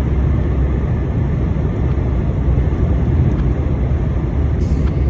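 Heavy lorry's engine and road noise heard from inside the cab: a steady low rumble.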